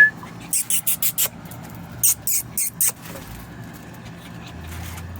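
Dog sniffing close up: two quick runs of about four short, hissy sniffs each, the first just after the start and the second about two seconds in.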